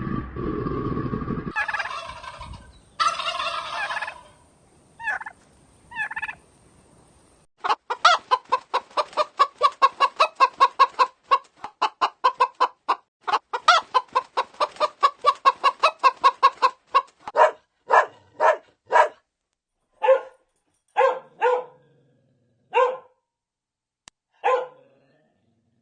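Domestic poultry calling: a fast run of short clucking notes, about five a second, that slows after a while to single clucks spaced about a second apart.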